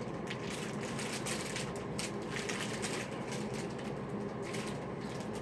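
Plastic candy packaging crinkling and crackling as it is handled and opened, a quick irregular run of small crackles.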